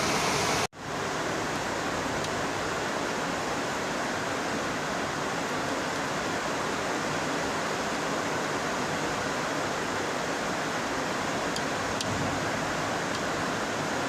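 Heavy rain falling in a steady, even hiss, with a few faint ticks near the end.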